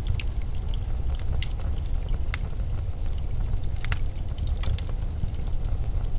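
Blizzard wind making a steady low rumble, with scattered sharp crackles and ticks over it.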